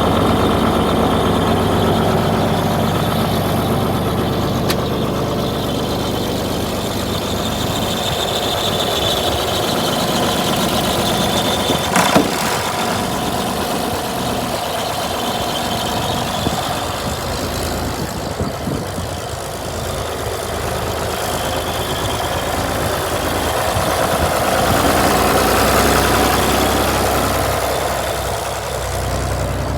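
John Deere 4230 tractor's six-cylinder diesel engine running steadily, its loudness rising and falling a little, with one sharp click about twelve seconds in.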